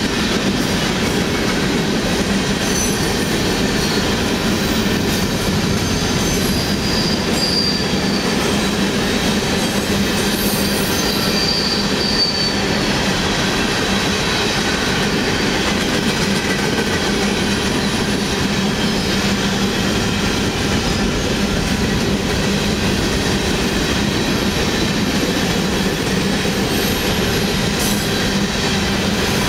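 Freight train of hopper cars rolling past at a steady speed: a continuous rumble and rattle of wheels on rail. A couple of brief, faint high wheel squeals come in the first half.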